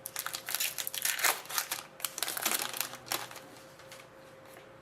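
Crinkling and rustling of a plastic or foil trading-card pack wrapper being handled, in quick dense crackles that die away after about three seconds.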